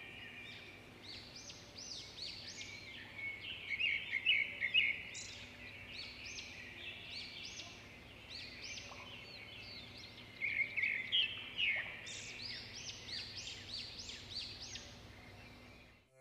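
Birdsong: many small birds chirping in quick, overlapping high calls, busiest about four seconds in and again about eleven seconds in, over a faint steady low hum. It cuts off just before the end.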